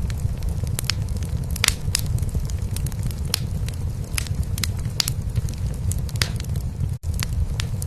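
Wood fire crackling in a fireplace, with irregular sharp pops and snaps, over a steady low rumble of a cat purring. The sound cuts out for an instant about seven seconds in.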